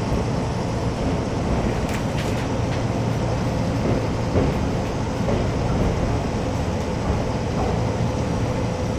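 Keisei 3400-series electric train running, heard from inside a passenger car: a steady rumble of wheels on rail with a faint steady hum, and a few light clicks about two seconds in.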